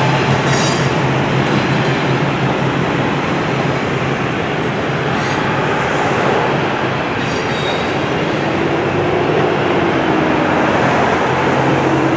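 Freight train cars rolling across a steel truss bridge overhead: a steady loud rumble and clatter of wheels on the rails, with a couple of brief high wheel squeals.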